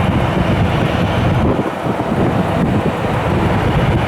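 Wind buffeting the microphone: a loud rushing rumble that gusts unevenly, with no engine whine standing out.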